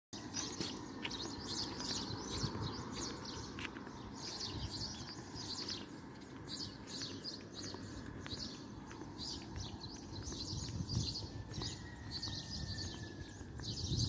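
Small birds chirping over and over, with a steady low rumble underneath.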